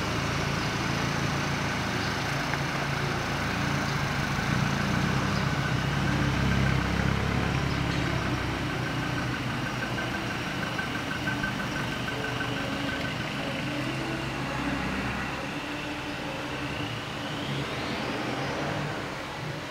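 A motor vehicle's engine running steadily, with a low hum that drops away about three-quarters of the way in. A short rising whine follows near the end.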